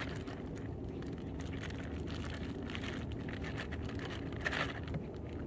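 Steady low motor hum with a few faint clicks, the most noticeable about three seconds in and again near the end.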